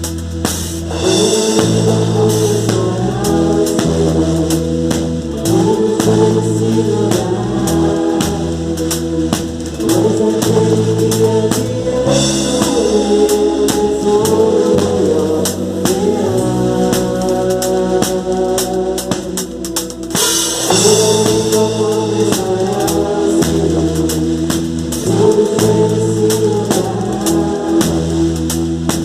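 Live gospel band playing a slow song: bass and sustained keyboard chords over a steady drum-kit beat, with some singing.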